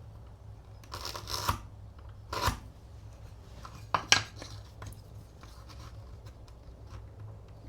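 Hand marking-out tool scoring and scratching across wood in a few short strokes, with two sharp clicks of the tool on the wood about four seconds in, the loudest sound. A low steady hum runs underneath.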